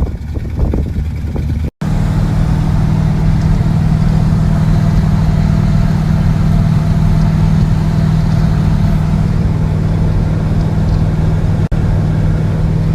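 1981 Chevrolet K10 pickup's engine running at a steady, unchanging pitch, starting after an abrupt cut about two seconds in.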